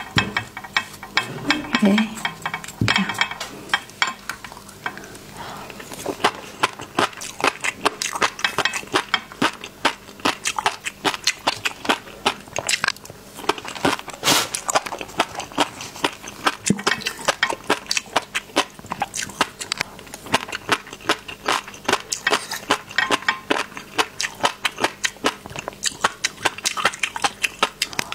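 Close-miked chewing of fish roe and raw seafood in chili sauce: a dense, continuous run of sharp wet clicks and pops, several a second.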